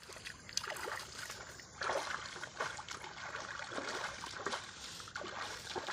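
Shallow water trickling, broken by irregular small splashes, the loudest about two seconds in.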